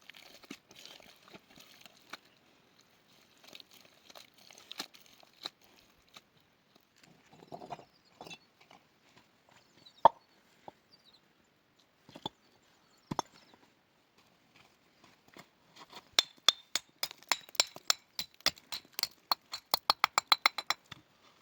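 Scattered sharp knocks and clicks, as of handwork on wood. In the last few seconds they turn into a fast run of ringing taps, several a second.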